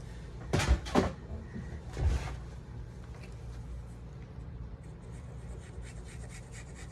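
Paper and card stock being handled on a craft table: a few sharp rustling, sliding strokes in the first couple of seconds, then quieter shuffling and small taps.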